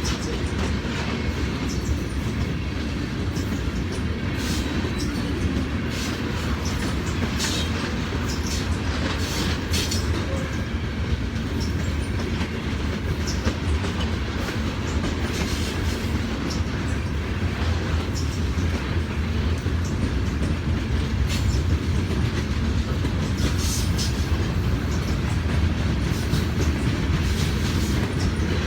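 Norfolk Southern grain train's covered hopper cars rolling past, wheels clacking over rail joints in a steady rumble. Sharp high clicks come in clusters a few seconds in and again near the end.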